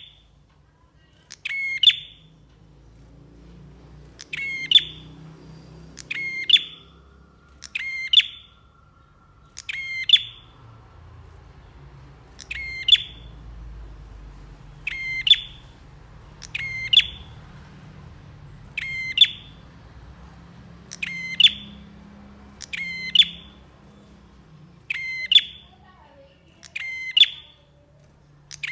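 Prenjak songbird calling over and over, a short sharp burst of rapid high chirps roughly every one and a half to two seconds, over a faint low hum.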